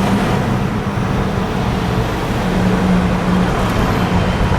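Steady running noise of a motor vehicle heard from inside, a continuous rumble and road noise with a low engine hum.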